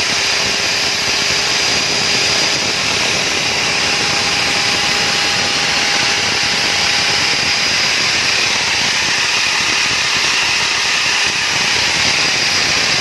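Willfred WFDC 205 diamond core drill's electric motor running steadily at speed, a loud even whine with a few held tones.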